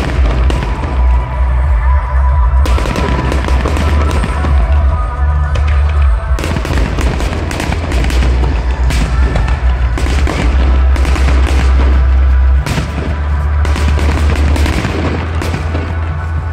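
A fireworks display: rapid bangs and crackling over loud music with a heavy bass line.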